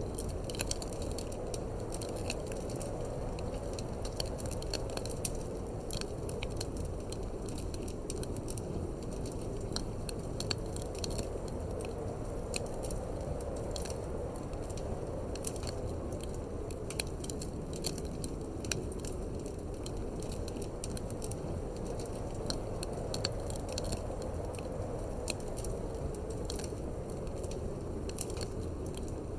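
Wood fire crackling in a fireplace, with frequent irregular sharp pops and snaps over a steady low rumble of wind.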